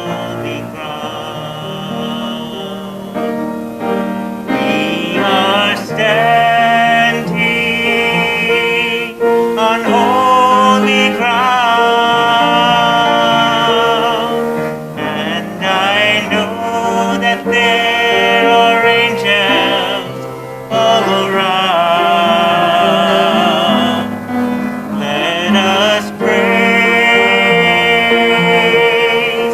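A singer performing with piano accompaniment: long held notes with vibrato, phrase by phrase, over sustained piano chords.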